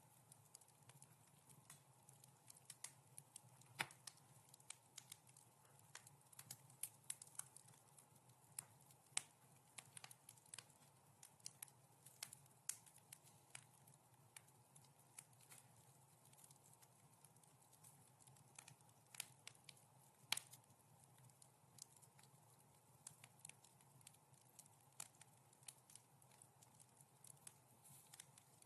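Wood fire crackling in a fireplace: soft, irregular snaps and pops at uneven intervals, a few sharper than the rest, over a faint steady low hum.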